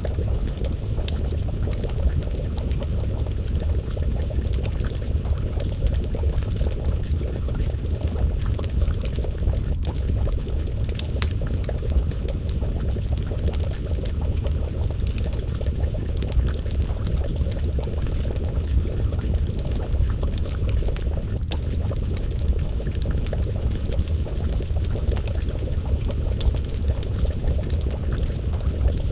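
Wood fire crackling with scattered sharp pops, over a pot of stew bubbling on the flames as a steady low rumble.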